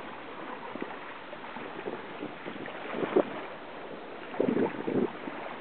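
Water sloshing and lapping against the hull of a slowly moving Catalina 22 sailboat, over wind on the microphone. There is a louder slap about three seconds in and a burst of splashing from about four and a half seconds.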